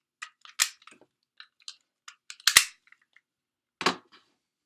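Hard plastic toy parts of DX Zyuohger cube mecha clicking and clacking as they are handled and taken apart or snapped together: a run of small ticks with two louder clacks, one about two and a half seconds in and another near four seconds.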